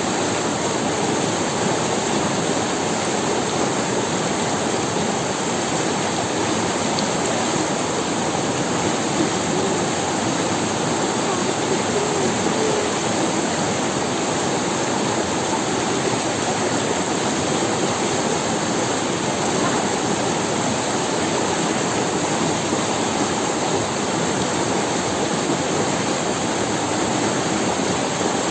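Forest river running steadily over stones, an even, unbroken wash of water noise.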